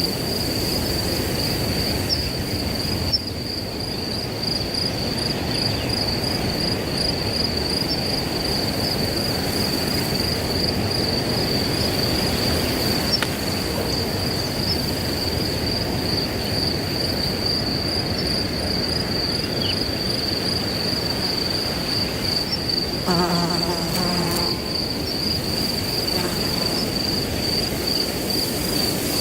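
Crickets trilling, a steady high pulsing chirp, over wind rustling through grass. About three-quarters of the way through, a brief low humming tone with overtones sounds for a second or two.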